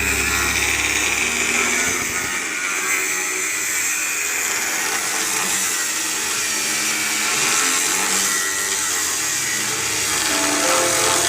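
A power tool running steadily for the whole stretch, a loud even noise with most of its energy in the upper range.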